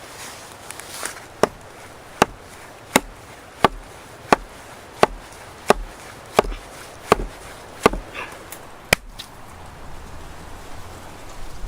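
An axe chopping wood: about eleven sharp, evenly paced strikes, a little more than one a second, that stop about nine seconds in.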